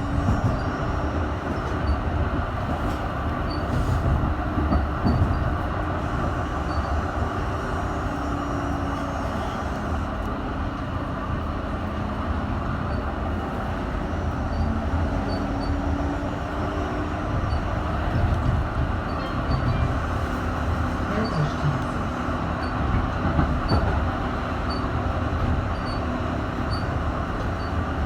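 Düwag M8C tram running along the track: a steady rumble of wheels on rails, with faint motor tones that drift slowly in pitch.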